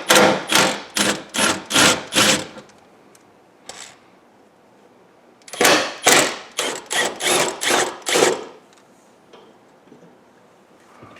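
Hand-tool work on car interior parts: two runs of rhythmic strokes, about three a second, with a pause of about three seconds between them.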